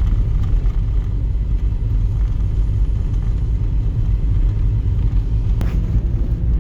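Steady low rumble of a Volkswagen Jetta driving on a snowy road: engine, tyre and road noise from the moving car. A single sharp click a little before the end.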